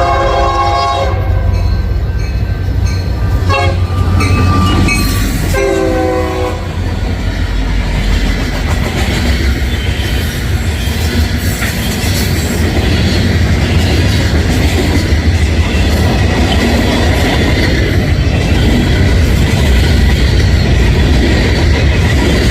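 Diesel freight locomotive's air horn sounding a chord that stops about a second in, then a few short horn blasts up to about six seconds in. After that comes the steady rumble and clatter of the passing freight train, wheels running over rail joints.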